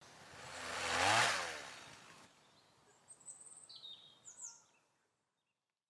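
A rush of noise that swells to a peak about a second in and fades away, like a whoosh, followed by a few short, high, falling bird chirps.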